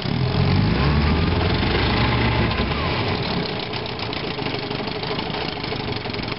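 1958 Johnson AD-12 7.5 hp two-cylinder two-stroke outboard motor running in reverse. It gets louder right at the start, holds for about three seconds, then eases back to a lower, steady run.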